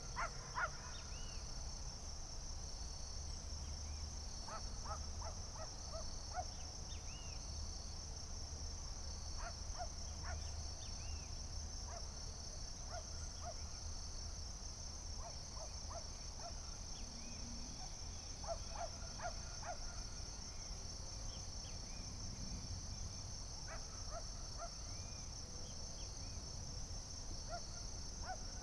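Steady, high-pitched insect chorus with a pulsing texture, with clusters of short bird calls breaking in every few seconds.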